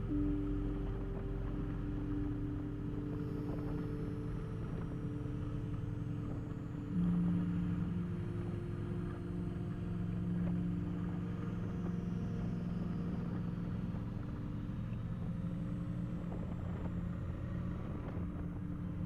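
Kawasaki Vulcan motorcycle engine running under way, heard through a helmet or bike camera. The engine note holds steady with a low rumble and shifts pitch near the start and again about seven seconds in, as the revs change.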